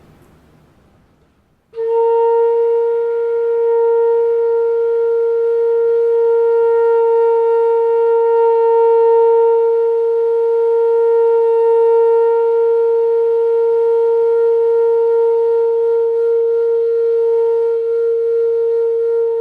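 Bansuri (bamboo transverse flute) sounding one long, steady held note, starting about a second and a half in and sustained without a break to the end: the beginner's long-note breathing exercise.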